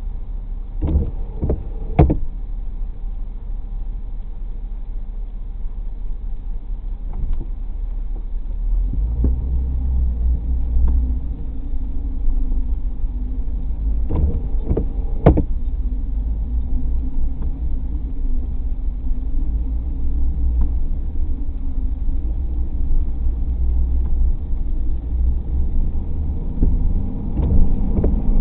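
Road and tyre noise of a moving car: a steady low rumble that grows heavier about nine seconds in, with a few short, sharp knocks, three near the start and two a little after halfway.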